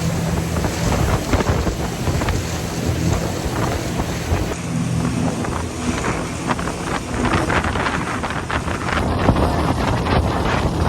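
Fast passenger ferry running at speed: steady engine drone under heavy wind buffeting the microphone.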